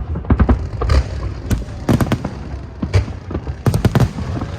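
Aerial fireworks bursting in quick, irregular succession: many sharp bangs with a low rumble between them.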